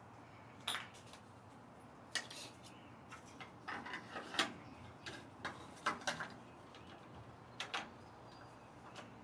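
Light, irregular clicks and clinks of parts and tools being handled while assembling an elliptical trainer, about a dozen, loudest a little past the middle.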